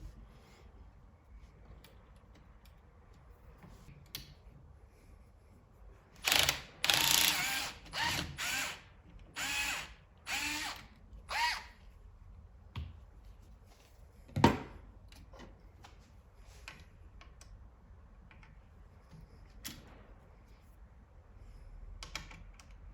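A small electric motor whirring in about seven short bursts over some five seconds, followed a few seconds later by one sharp click, with light handling noises around them.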